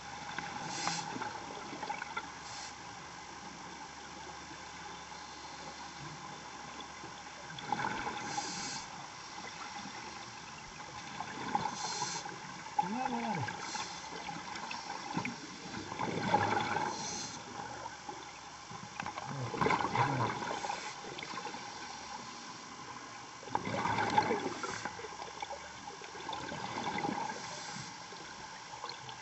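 Underwater diver's exhaled air bubbling and gurgling in bursts every three to four seconds, over a steady hiss.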